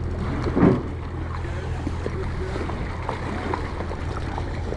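Wind buffeting the microphone, a steady low rumble, with one louder knock about half a second in.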